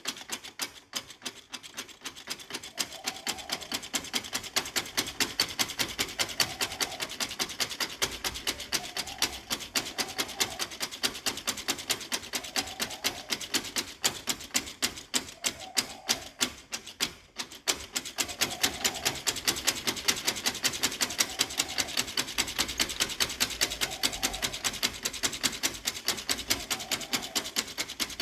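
Fast, even ticking and scraping of small-scale hand work on a miniature craft piece, with a soft swell repeating every second or two.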